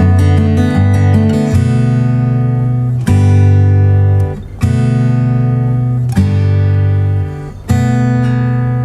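Background music: an acoustic guitar strumming chords, with a quick strummed pattern in the first second and a half, then held chords that change about every one and a half seconds.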